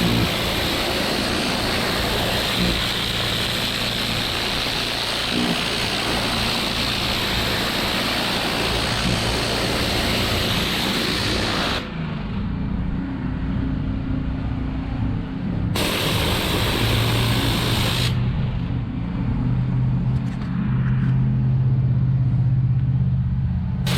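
Pressure washer running, its spray hissing hard over the steady hum of its engine. About halfway through the spray cuts off suddenly, comes back for about two seconds, then stops again, leaving the engine's hum.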